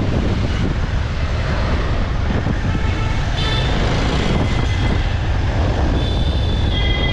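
Motorcycle on the move: steady, loud engine and road rumble mixed with wind on the microphone, with faint high tones from traffic about halfway through and again near the end.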